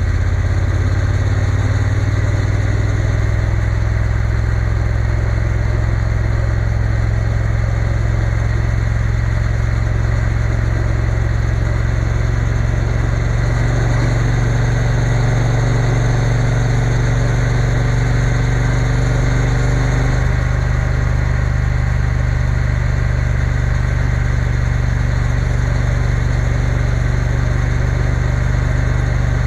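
Triumph Bonneville T120 parallel-twin engine running steadily on the road, its note shifting slightly about 13 seconds in and again about 20 seconds in.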